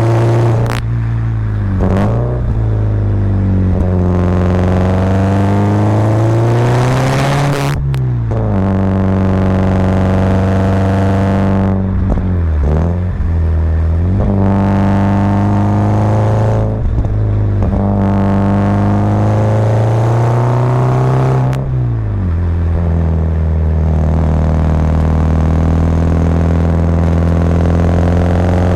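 Subaru Impreza WRX's turbocharged boxer engine pulling uphill, its revs climbing over several seconds and then dropping sharply about three times, at gear changes or lifts off the throttle. It settles into a steady run for the last several seconds.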